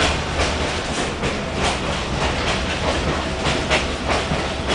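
Passenger train rolling along the track: a steady low rumble with a run of sharp clicks, a few a second, as the wheels pass over rail joints.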